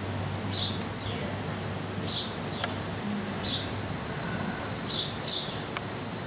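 Birds chirping: short, high calls repeating about every one and a half seconds, with two close together near the end.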